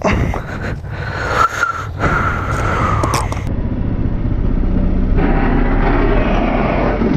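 Motorcycle riding sounds: an engine running under a rush of wind noise, changing abruptly about halfway through to a steadier, lower rumble.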